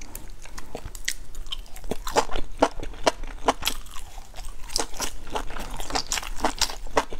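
Close-up eating sounds of grilled skewered meat: biting and chewing, with irregular crunchy, wet clicks several times a second.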